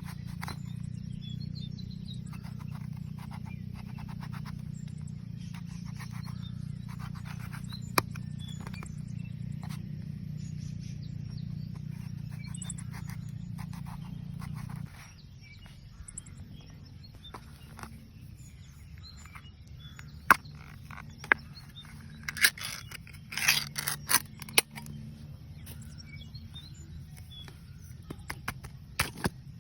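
Outdoor ambience with many small chirps over a steady low rumble that drops abruptly about halfway through. In the second half come a few sharp clicks and a short burst of scraping and clattering.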